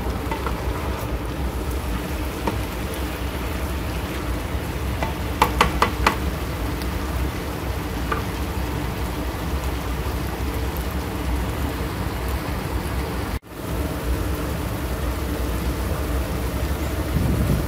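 Mixed vegetables sizzling and crackling in a hot skillet, a steady frying hiss over a low rumble. A short run of sharp clicks comes about five to six seconds in, and the sound breaks off for an instant a little after the middle.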